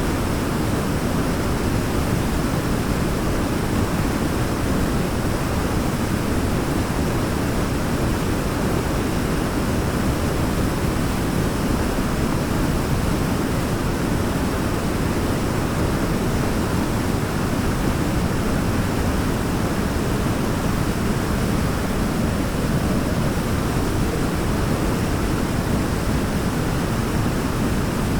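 Waterfall with a steady, even rush of falling water, heaviest in the low range, with no separate splashes or other events.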